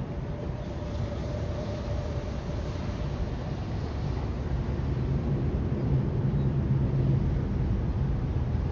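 Low mechanical rumble with a steady hum, growing louder from about five seconds in, with a faint higher tone during the first few seconds.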